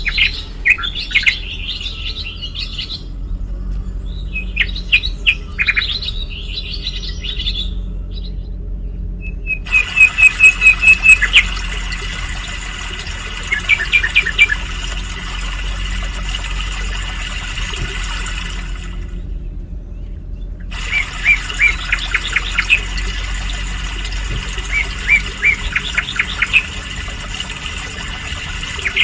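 Small songbirds chirping and calling in short bursts, with a rapid run of about ten loud notes about ten seconds in. A steady hiss behind them starts and stops abruptly twice.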